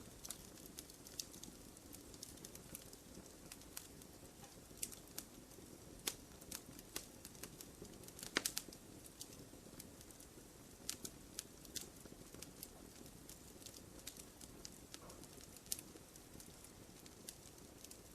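Wood fire crackling in a fireplace: scattered sharp pops and snaps over a soft steady hiss, with a brief cluster of louder pops about eight seconds in.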